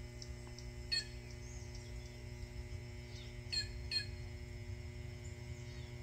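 A few short bird chirps, about a second in and again twice near the four-second mark, over a steady low hum.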